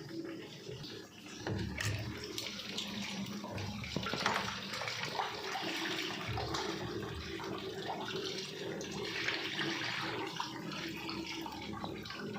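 Water running and splashing inside a washing machine, coming in about one and a half seconds in, over a steady low hum.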